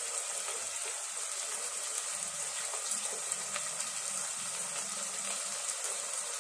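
Onions, tomatoes and green chillies frying in hot oil in a pot: a steady sizzle with a few scattered crackles.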